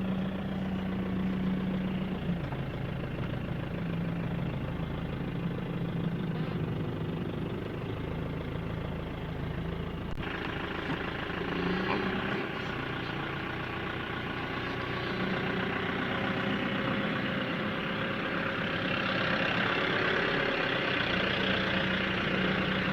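Mahindra Bolero SLX's diesel engine running steadily as the vehicle pulls away in first gear with the clutch let out slowly, heard from inside the cabin. About ten seconds in the sound turns brighter and noisier.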